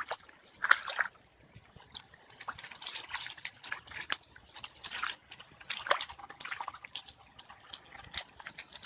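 Heavy rainwater sloshing, splashing and trickling in irregular splashes, from flood runoff after a downpour.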